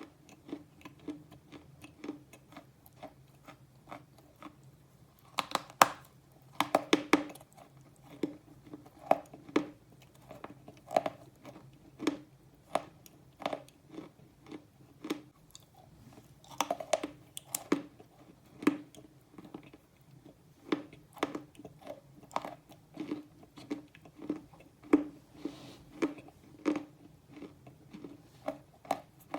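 Slate pencil being chewed close to the microphone: steady crunchy chewing strokes a little over one a second, with louder crackling crunches about six seconds in and again around seventeen seconds, where fresh pieces are bitten off.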